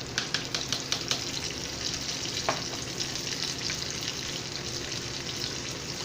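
Hot oil sizzling steadily around flounder fillets frying in a pan, with sharp crackles and pops that are thickest in the first second or so.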